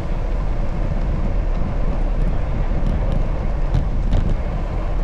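Steady rumble of wind and traffic heard from a moving bicycle, with a few faint ticks about four seconds in.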